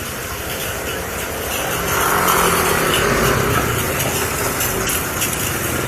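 Motorcycle engine running on the move, with wind rushing over an action camera's uncased microphone; it gets louder about two seconds in.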